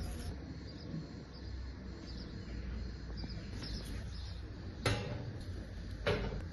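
Faint bird chirps over a low steady rumble, with two sharp knocks about five and six seconds in, the second a little longer.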